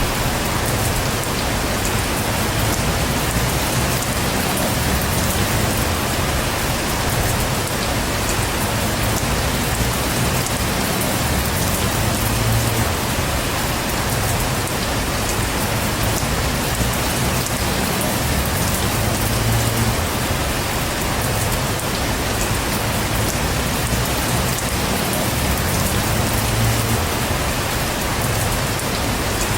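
Heavy rain falling steadily and evenly, with a low rumble underneath that swells and fades every several seconds.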